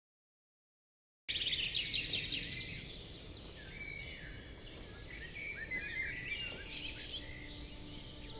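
Silence, then about a second in a woodland bird chorus cuts in suddenly: many small birds chirping and singing at once over a steady outdoor background hiss.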